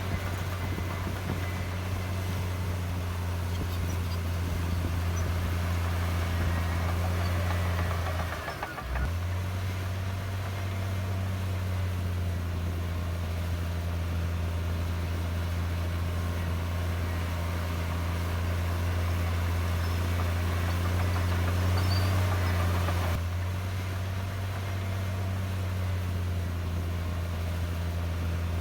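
Heavy diesel engine of earthmoving machinery running steadily with a low drone, which dips briefly about nine seconds in.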